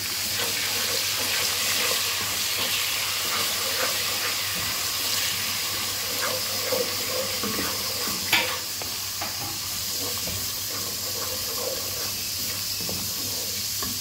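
Chopped tomatoes, onions and green chillies sizzling in hot oil in a pot as they are stirred with a wooden spatula, a steady frying hiss. There is one sharp knock about eight seconds in.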